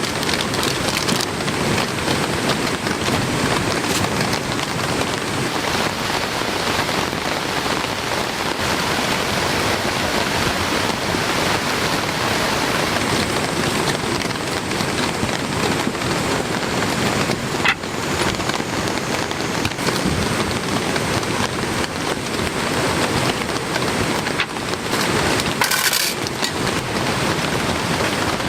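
Heavy rain falling steadily, a dense unbroken hiss, with a couple of brief sharp knocks in the second half.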